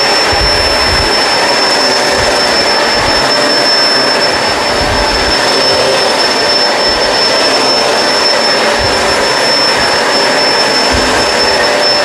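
Kenmore Crossover Ultra upright vacuum running steadily on carpet with its brush roll on: a loud, even rush of suction with a constant high-pitched whine over it, and irregular low thuds as the head is pushed back and forth.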